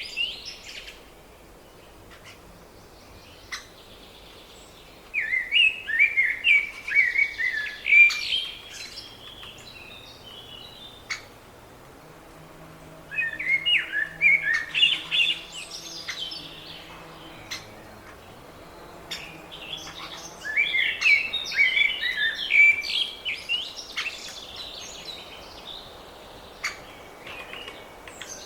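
Small songbirds chirping and singing in bursts of a few seconds, three times, with quieter gaps between. A faint low hum sits underneath in the middle.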